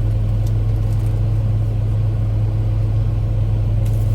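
Steady low hum of an idling engine, unchanging throughout, with a few faint ticks.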